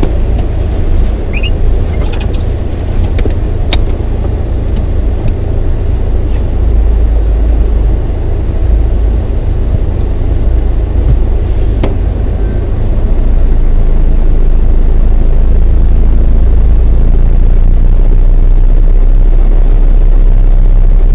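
Steady low rumble of a stopped car's idling engine, heard from inside the cabin, with a couple of faint clicks. It gets a little louder and steadier about two-thirds of the way in.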